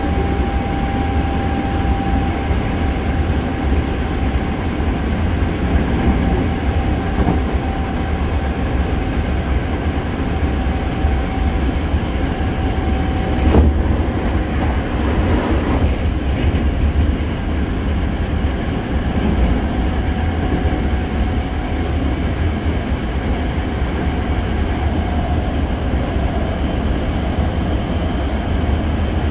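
Hankyu 6300 series Kyo-train running at speed, heard from inside the passenger car: a steady rumble of wheels on rail with a thin steady whine through the first half. A little after halfway, a sudden rush as the Kyo-train Garaku passes on the other track, lasting a couple of seconds.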